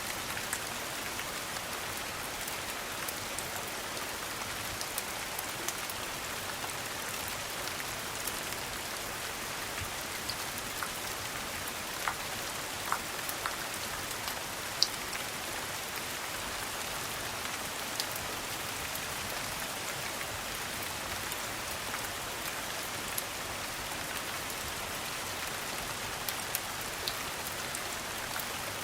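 Steady rain falling, an even hiss, with occasional sharp clicks scattered through it, the loudest about halfway.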